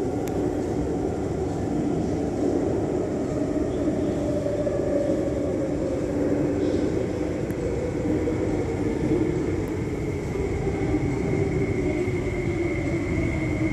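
MTR West Rail Line IKK electric train running through a station platform: a steady rumble with slowly shifting motor tones, and a high steady whine coming in about halfway.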